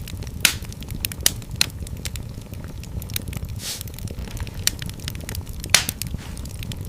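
Wood fire in a fireplace crackling, with irregular sharp pops, a few of them louder (the strongest a little before the end), over a low, steady rumble of the flames.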